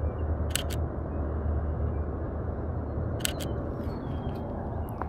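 A camera shutter fires twice, a little over half a second in and again about three seconds later, each time a quick double click, over a steady low rumble.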